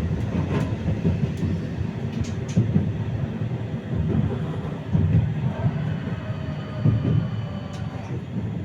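A 71-931M Vityaz-M tram running along the track, heard from on board: a steady low rumble of wheels on rails with uneven knocks every second or two.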